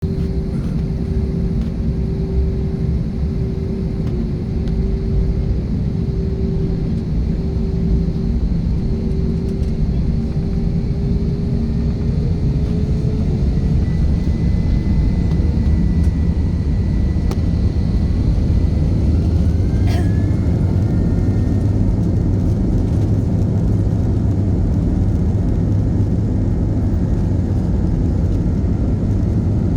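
Airplane engines running with a loud, steady rumble during takeoff, growing slowly louder. A droning tone creeps up in pitch about ten seconds in, and a thin rising whine and a short click come at about twenty seconds.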